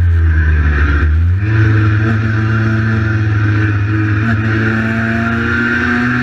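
Cagiva Mito 125's single-cylinder two-stroke engine under way: the revs fall for about a second, jump up sharply about a second and a half in, then hold fairly steady.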